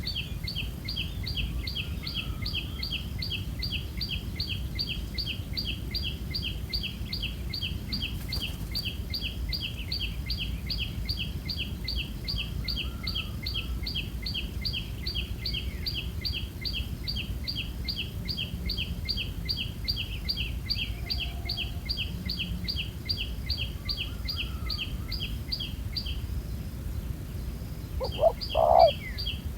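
A small bird chirping in a fast, even series of high notes, about four a second, which pauses briefly near the end and then starts again. A short, louder sound at a lower pitch comes just before the end.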